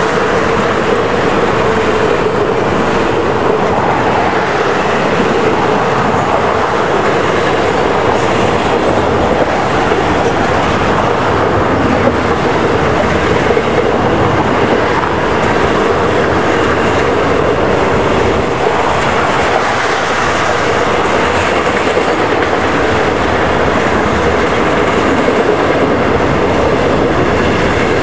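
Railcars of a long passing train, passenger coaches and then loaded flatcars, rolling by: steady wheel-on-rail noise, with wind buffeting the microphone.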